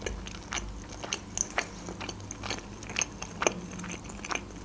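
Close-miked chewing of a mouthful of boiled pelmeni dumplings: short, irregular mouth clicks and smacks, a few a second.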